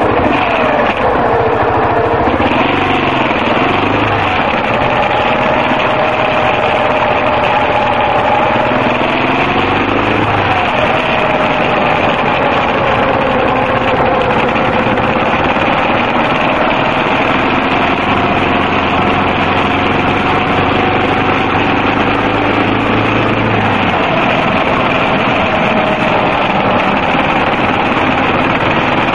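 Yamaha XT250's single-cylinder four-stroke engine running under way, its pitch rising and falling as the rider works the throttle, over a steady rush of wind and road noise.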